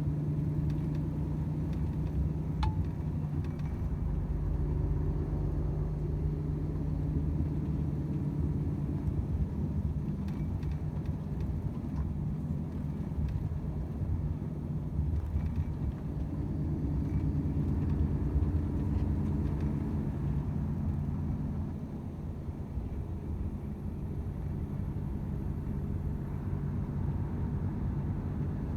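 Volvo FH 500 truck's 13-litre six-cylinder diesel running steadily on the road, a low hum mixed with road noise, with a few faint clicks; it gets a little quieter about three quarters of the way through.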